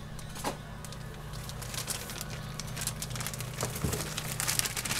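A plastic bag of frozen stir-fry vegetables crinkling as it is handled and opened, with irregular crackles that grow denser and louder over the last two seconds.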